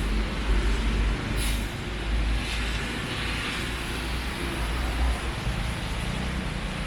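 Motor vehicle noise: a steady low rumble under an even wash of noise, with a short sharp hiss about a second and a half in.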